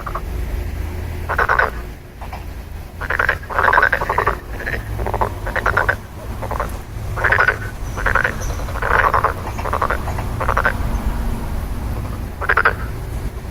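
Frogs croaking: short rattling calls, each under half a second, repeated irregularly about once a second, over a steady low rumble.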